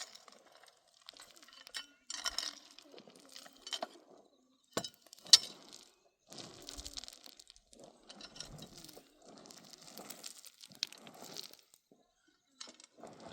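Hard objects being handled, clinking and knocking irregularly, with two sharp knocks about five seconds in.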